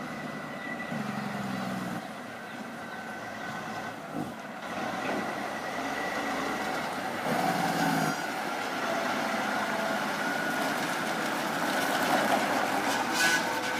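Tractor-trailer truck's engine running, with its pitch picking up briefly about a second in and again around seven seconds in.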